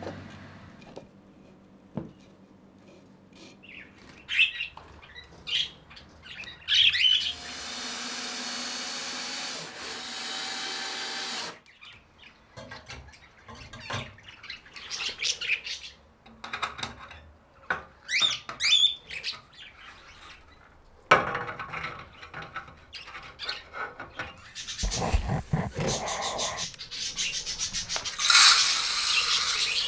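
Budgerigars chirping and warbling in short bursts, with one longer steady warble partway through. In the last third, louder stretches of noise and a few knocks come in.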